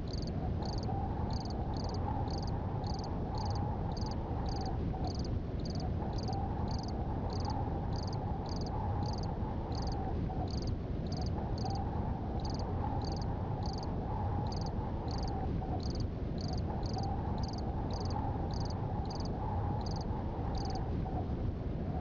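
Night chorus of frogs and insects: a high chirp repeating about twice a second that stops shortly before the end, over a lower continuous trill that breaks off every few seconds.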